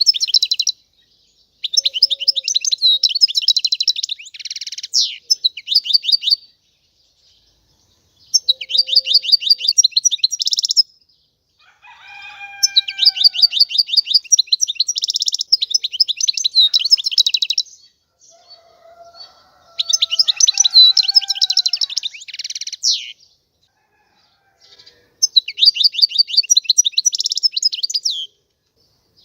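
European goldfinch singing: phrases of rapid, high twittering trills broken by short pauses, about half a dozen phrases. Fainter, lower gliding calls sound beneath the song twice, about halfway through and again a few seconds later.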